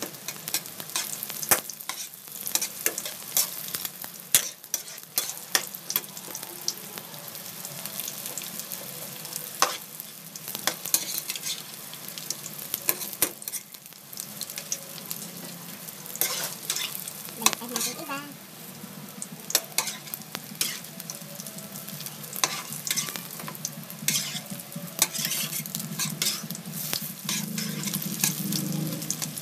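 Vegetable lumpia (spring rolls) frying in shallow hot oil in a metal wok, a steady sizzle full of pops and crackles. Tongs tap and scrape against the wok as the rolls are turned and lifted out.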